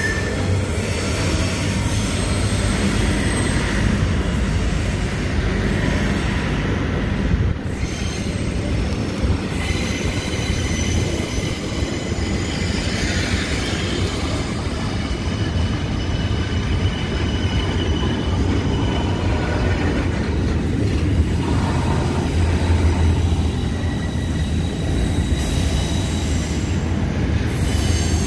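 Freight train of container wagons rolling past close by: a steady heavy rumble of steel wheels on rail, with thin, high wheel squeal coming and going.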